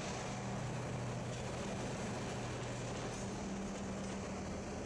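A Reading & Northern diesel locomotive and caboose passing close by, the engine's steady low drone over the noise of wheels on the rails.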